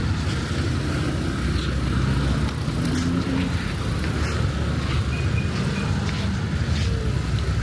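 Road traffic: cars passing with a steady, low engine hum.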